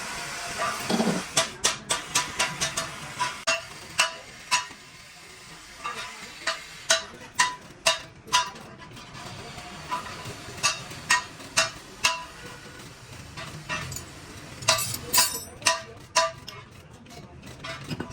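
Hammer strikes on sheet-metal car door panel, sharp ringing blows in irregular runs, as in panel beating out a dent.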